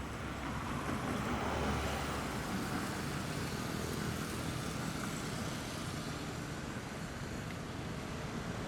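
Steady road traffic noise with a car engine running, swelling slightly about a second in.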